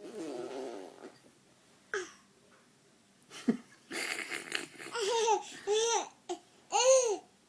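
A baby's voice making funny noises: a breathy sound, laugh-like huffs, then several short high-pitched squealing calls that rise and fall.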